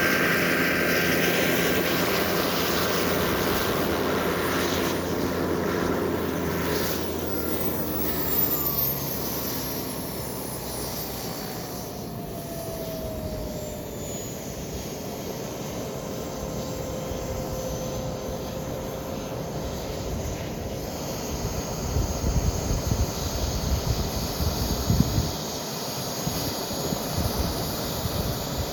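Model jet's turbine engine whining as it flies past, the whine falling steadily in pitch as the plane goes by and draws away. Uneven low rumbling and thumps come in near the end.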